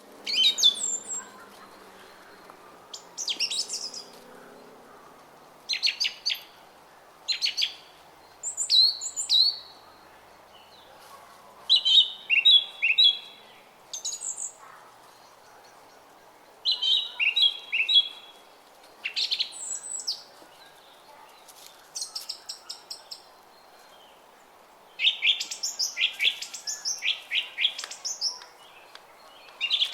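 Songbirds singing short, quick chirping phrases every second or two, some as rapid trills, over the faint steady babble of a brook.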